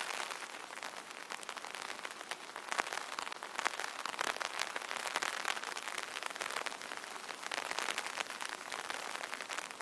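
Light rain hitting an umbrella: a steady hiss thick with many small, quick drop ticks.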